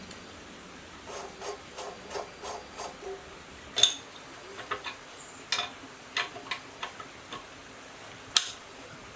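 A run of light, irregular clicks and taps, with two sharp knocks about four and a half seconds apart.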